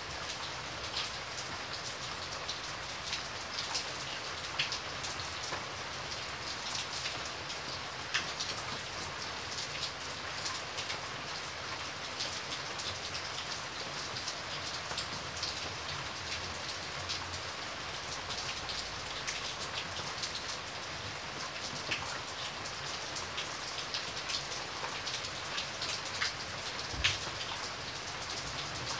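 Steady rain falling, with many separate drops striking close by as sharp little ticks over the even hiss; one hit near the end stands out louder.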